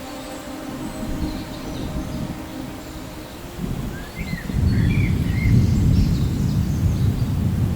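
Thunder rumbling low and swelling louder about halfway through, over a steady hiss of rain. A bird chirps a few times as the rumble builds.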